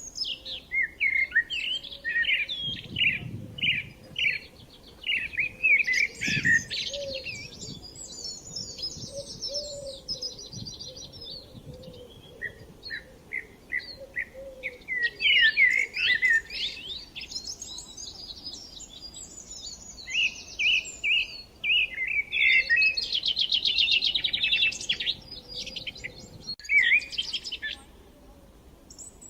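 Several songbirds singing together: overlapping chirps and whistled phrases, with fast rapid-note trills, thickest around the middle and near the end.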